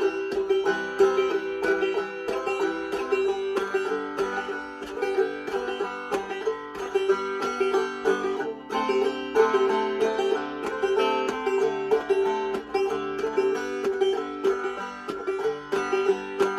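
Five-string banjo played clawhammer (frailing) style: a steady rhythmic pattern of struck melody notes and brushed strums, with the thumbed drone string sounding the same high note over and over.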